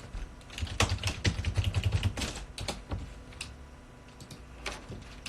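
Typing on a computer keyboard: a quick run of keystrokes for about two seconds, then a few scattered key presses.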